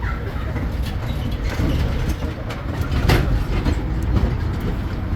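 Tourist road train underway, riding in its passenger carriage: a steady low rumble of engine and tyres on the road with scattered rattles and knocks from the carriages, one sharper jolt about three seconds in.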